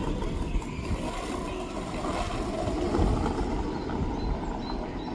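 Steady low rumble of a boat under way, its engine running.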